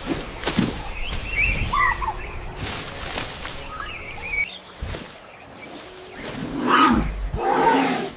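Birds chirping briefly a few times over outdoor ambience, with scattered sharp knocks and a louder rough noise swelling near the end.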